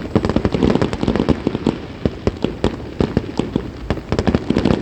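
Fireworks going off in a fast, irregular barrage of sharp bangs and crackles, several a second, starting suddenly.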